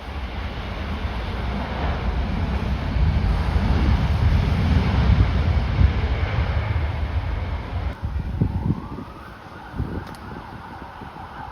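Jet airliner coming in to land, its engine noise swelling to a peak about halfway through and falling away, with gusting storm wind buffeting the microphone. A steady high whine comes in near the end.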